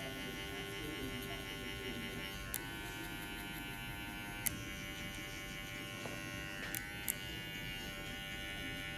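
Electric hair clippers running with a steady buzz during a haircut, the tone shifting slightly a few times, with a few short sharp clicks.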